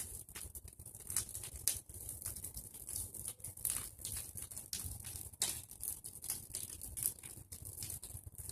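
Bonfire of pruned tree branches crackling, with irregular sharp pops and snaps over a steady low rumble.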